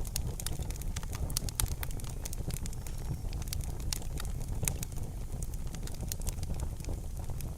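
Fire in a fireplace crackling, with frequent irregular sharp pops over a low steady rumble of burning.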